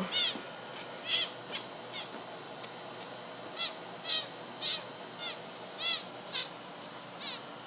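Baby making a run of short, high-pitched squeaky calls, about a dozen, each rising and falling in pitch, repeated irregularly about every half second.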